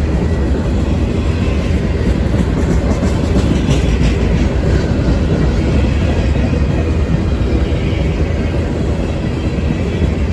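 A train passing close by: a loud, steady rumble of railcar wheels rolling on the rails.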